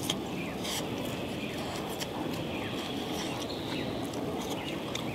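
Chewing a crisp-bottomed pan-fried pork dumpling (potsticker), with a few small crunches and mouth clicks over a steady background hiss.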